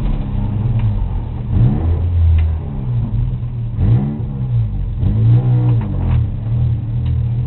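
Race-car engine at speed, its revs rising and falling several times over a steady engine drone.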